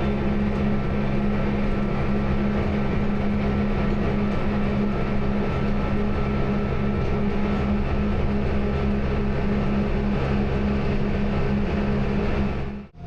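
A train running steadily: a constant rumble with a steady electric hum over it. It cuts off abruptly right at the end.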